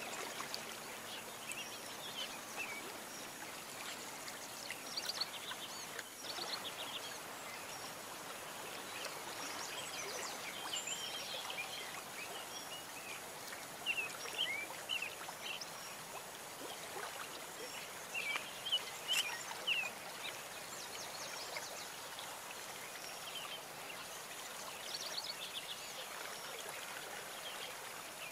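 Many short bird chirps and calls, scattered irregularly, over a steady background hiss.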